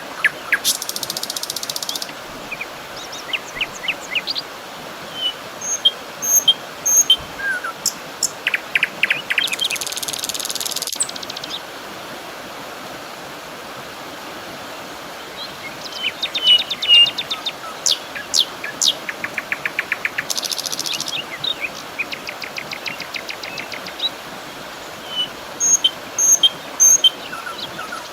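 Nature soundscape of birds chirping and insects trilling: many short high chirps and quick trills, with a few denser trilling passages lasting a couple of seconds each, over a steady background hiss.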